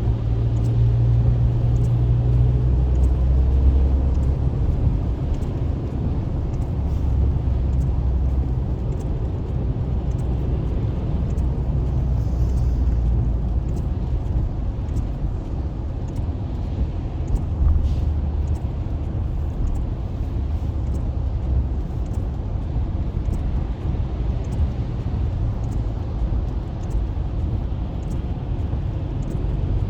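Steady road and engine noise heard from inside a moving car: a low rumble with a low engine hum that swells and fades.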